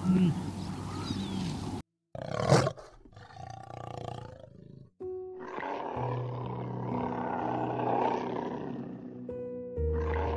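Honking animal calls cut off, then a cougar gives one loud, sudden snarl, followed by a few seconds of rougher growling. Calm background music with long held notes comes in about halfway through.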